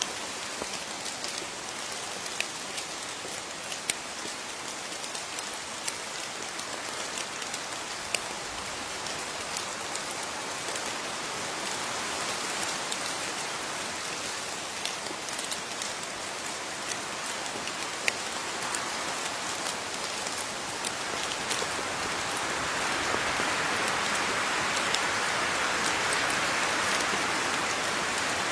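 Steady rain falling, with individual drops ticking sharply here and there; the downpour grows heavier about two-thirds of the way through.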